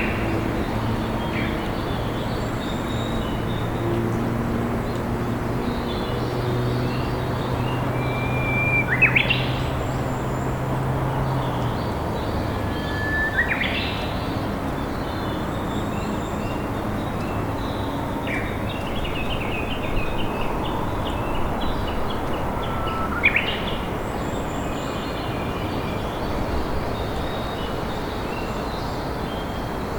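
A river flows steadily while a Japanese bush warbler sings several times, each song a held whistle that breaks into a quick rising flourish. Other small birds chirp faintly, and a low steady hum is present for about the first twelve seconds.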